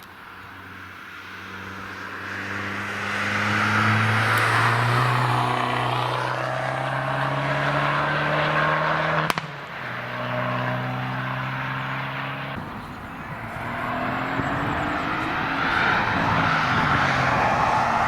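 Cars driving past on a racetrack, their engines rising in pitch as they accelerate. The sound jumps abruptly to another car twice, about nine and about twelve and a half seconds in.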